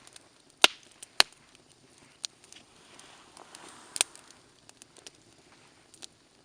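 Wood campfire crackling, with irregular sharp pops: two loud ones in the first second or so and another about four seconds in, with smaller snaps between.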